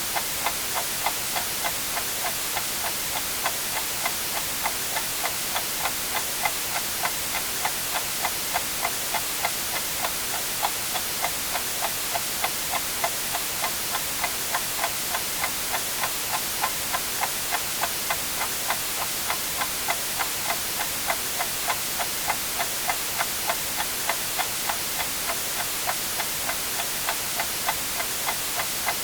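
Clock ticking steadily with evenly spaced ticks over a constant hiss of white noise.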